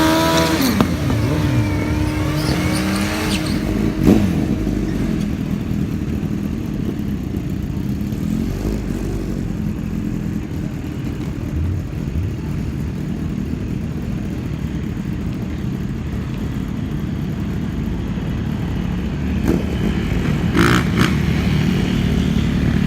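Suzuki Hayabusa inline-four sport bike engine running through a drag strip pass. A rising engine note ends in the first second, then a steady low drone carries on.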